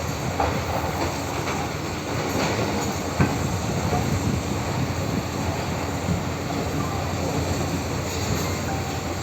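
Tractor engine running steadily under work, with a rattling clatter and scattered knocks, one sharper knock about three seconds in.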